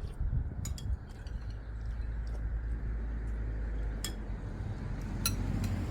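A few sharp, light clinks of eating utensils against bowls during a meal, over a steady low rumble.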